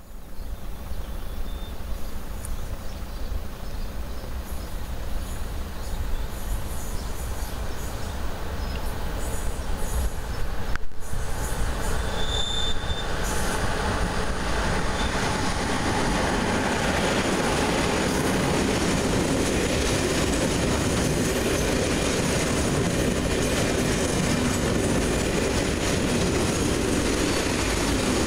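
Freight train of alumina tank and hopper wagons behind an HŽ class 1141 electric locomotive approaching and rolling past, the wheels rumbling on the rails. The sound grows louder over the first half and then holds steady as the wagons pass close.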